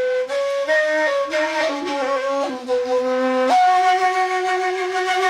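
Reed flute playing an instrumental interlude between sung verses of a Bedouin folk song. The melody is held notes that step from pitch to pitch, with a jump to a higher sustained note about three and a half seconds in.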